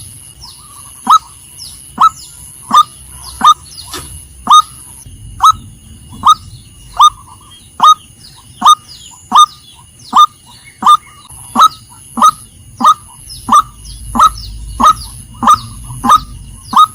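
Female white-breasted waterhen calling: one short, sharp note repeated at a steady pace, about three calls every two seconds.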